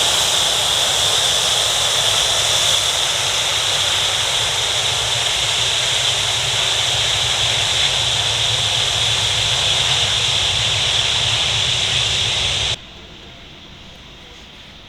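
Boeing 757-300's jet engines, a loud steady rush with a high whine over it. It cuts off abruptly near the end, leaving only faint background.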